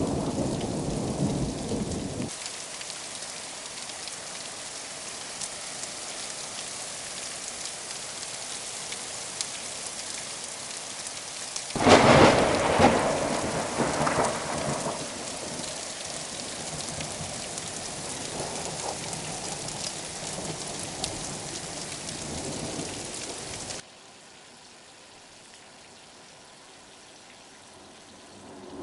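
Heavy rain falling with a steady hiss during a thunderstorm. Rumbling thunder cuts off about two seconds in, and a loud thunderclap about twelve seconds in rumbles away over several seconds. Near the end the rain drops abruptly to a quieter hiss.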